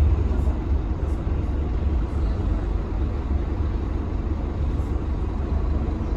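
Scania K310UB city bus heard from inside the cabin as it runs, a steady low engine rumble with road noise over it.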